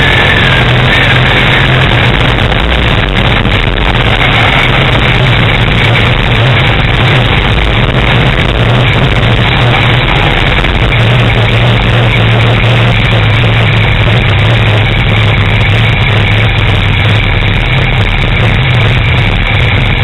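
Dirt-track race car engine running steadily, loud and close from a camera mounted on the car. The car has thrown its fan belts and the engine is overheating.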